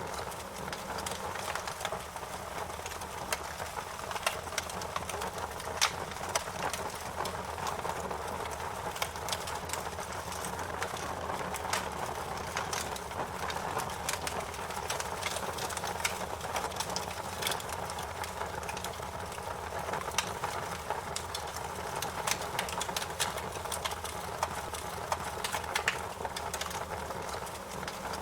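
Wood fire crackling in a fireplace: a steady, irregular run of small pops and snaps over a low, constant rush of burning.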